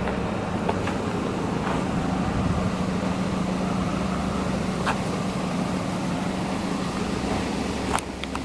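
A car engine idling steadily with a low, even hum. A few short clicks sound over it, the clearest near the end.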